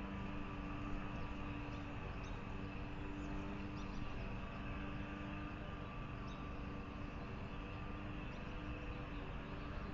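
A steady low hum with faint, scattered short high chirps from small birds.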